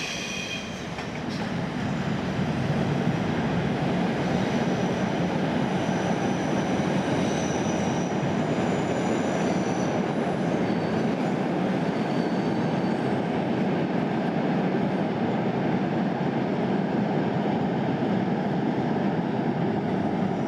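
Train running on the rails: a steady, loud rumble that builds over the first two seconds and then holds, with faint high-pitched wheel squeals coming and going in the middle.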